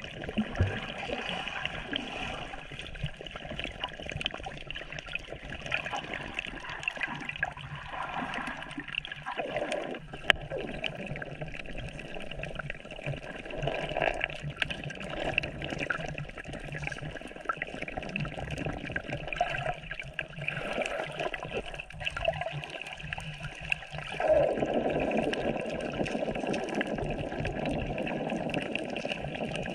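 Water running steadily, getting louder about 24 seconds in.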